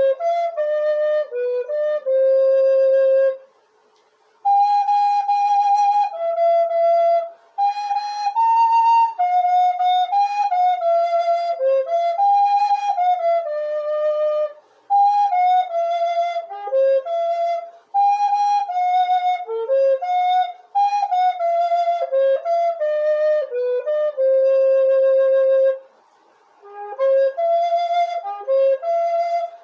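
Solo flute playing a hymn melody, one note at a time in a single line, with two short pauses between phrases.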